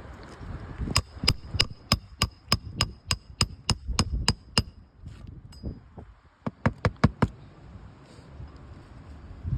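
Hammer driving roofing nails into a replacement 3-tab asphalt shingle. A run of about thirteen sharp strikes at about three a second, each with a metallic ring, then after a short pause a quicker burst of five or six strikes.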